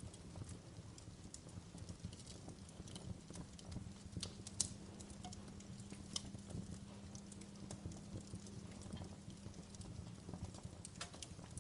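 Log fire burning in a fireplace: irregular crackles and pops from the burning wood over a low, steady rumble of flame, with one sharper pop about four and a half seconds in.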